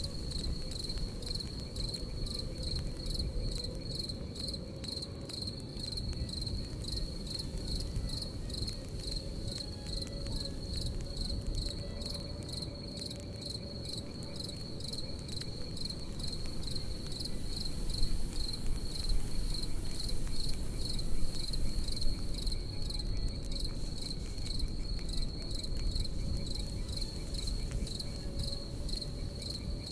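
Crickets chirping in a steady, high, pulsing trill over the low rush and scattered crackling of a campfire, with a few louder pops a little past the middle.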